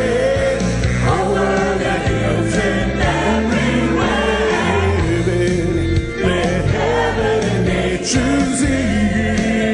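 Gospel choir singing over a steady low accompaniment.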